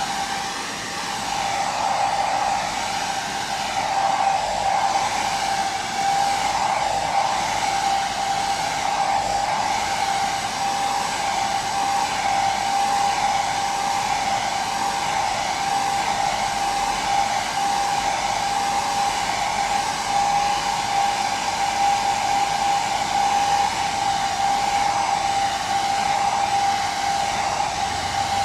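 Hair dryer running steadily, a constant blowing rush with a steady whine from its motor and fan.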